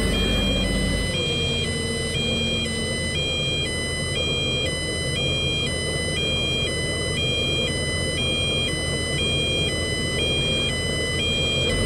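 A two-tone hi-lo siren, switching between a higher and a lower pitch about every half second, over a steady low rumble of engine and traffic noise.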